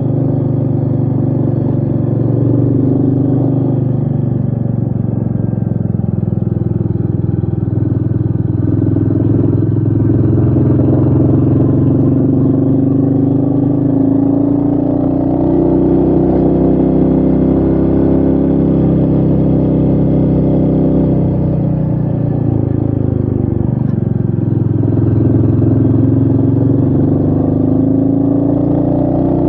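Royal Enfield Meteor 350's single-cylinder engine running on a ride, its pitch rising and falling several times as the revs change, with a drop and then a climb again about three quarters of the way through.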